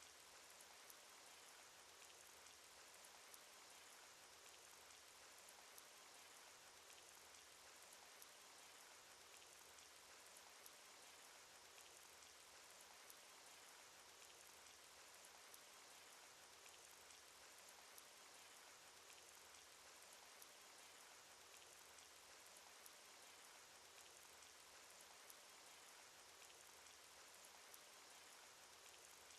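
Faint cartoon rain sound effect: a steady, even hiss of rainfall with many small, scattered drop ticks.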